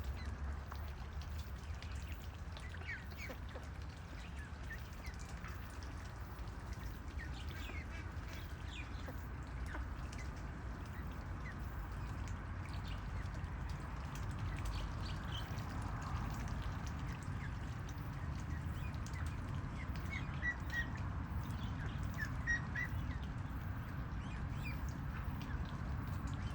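Domestic ducks calling, with scattered short high peeps over a steady low background hum.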